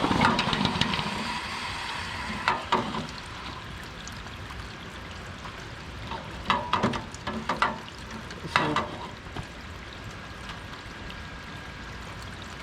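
Electric arc welding crackling and sizzling in short bursts, like tack welds: a longer run at the start, then brief bursts a few seconds apart.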